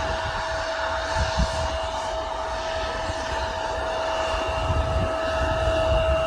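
Airplane engine running, a steady whine over a continuous rushing noise, with an uneven low rumble that comes and goes.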